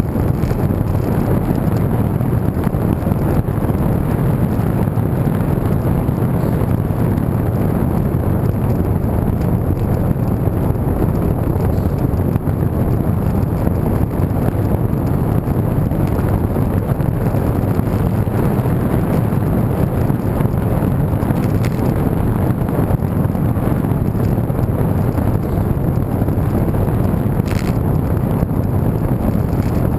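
Steady wind rushing over a camera microphone carried on a moving road bike, a loud low rumble with no breaks.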